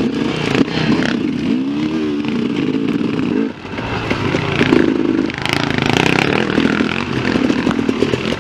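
Enduro dirt bike engine being ridden hard, its revs rising and falling again and again, with a brief drop in the engine note about three and a half seconds in.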